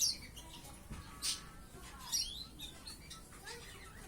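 Young white-eye giving a few short, high chirps and gliding call notes with gaps between them. The bird is about five to six months old and only beginning to learn its song.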